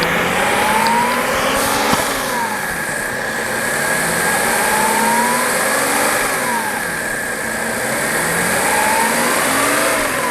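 Audi A7's freshly overhauled V6 engine being test-run, revved up slowly and let fall back three times, with a steady high whine underneath.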